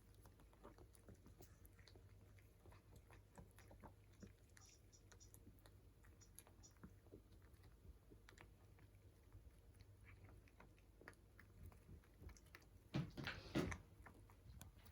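Cats eating: faint, quick chewing and biting clicks, with a louder flurry of clicks near the end.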